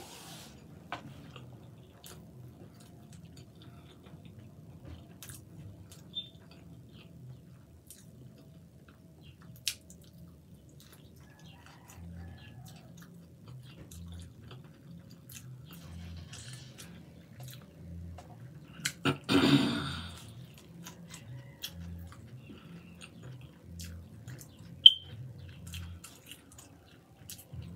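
Close-miked chewing, with faint wet mouth sounds and scattered sharp clicks, as a person eats a small yellow pepper. A louder, noisier sound comes about two-thirds of the way in.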